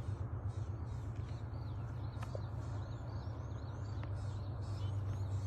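Small birds chirping over and over, short quick rising and falling notes, above a steady low hum.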